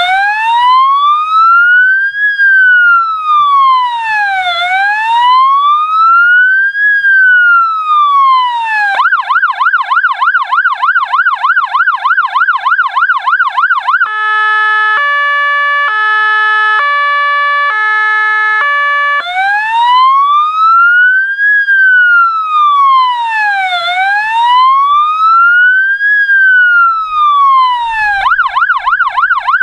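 Fire engine's electronic siren run through its tones: a slow wail rising and falling about every four and a half seconds, then a fast yelp about three cycles a second, then a two-tone hi-lo alternating about once a second, then the wail again, switching back to the yelp near the end.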